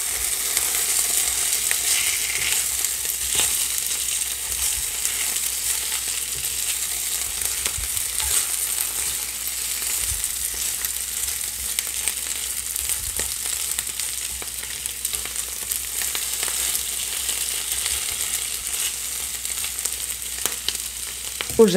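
Potato sticks and a mushroom, onion and carrot filling frying in oil in a pan with a steady sizzle, stirred with a spatula that scrapes lightly through them now and then.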